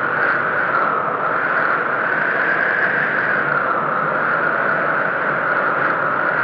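Howling snowstorm wind: a steady rush with a whistling howl that slowly rises and falls in pitch.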